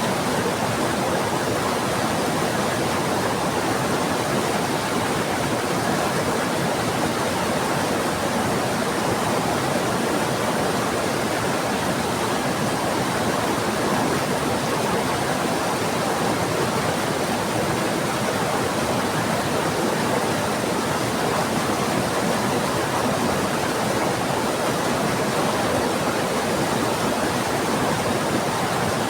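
Heavy rain together with a fast-flowing river, a steady, even rush of water with no breaks or thunder.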